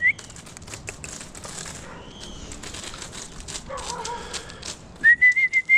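A person whistling to call a dog: a high whistle that ends just after the start, then another near the end that wavers rapidly in loudness on one slightly rising pitch. Between them come faint rustling clicks and a short falling animal call about four seconds in.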